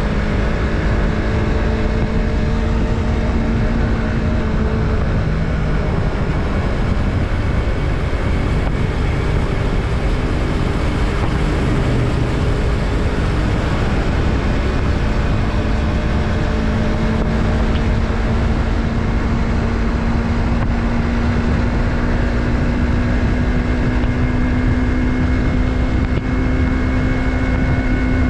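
Yamaha MT-03's 321 cc parallel-twin engine running at a steady cruise, with wind rushing over the microphone. The engine note holds steady, then creeps slowly higher in pitch over roughly the last ten seconds.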